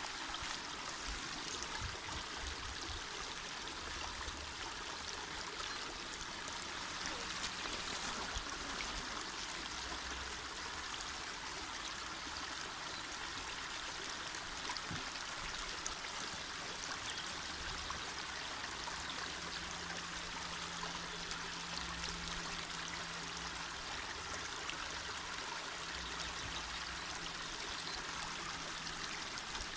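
Small mountain river flowing: a steady, even rush of water.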